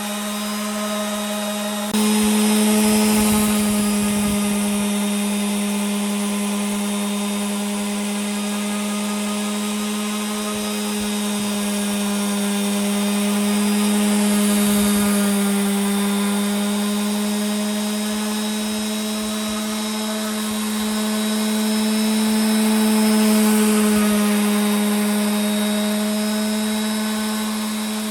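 Electric power tool motor running steadily, a constant hum with a hiss over it. It gets louder about two seconds in and swells slightly later on.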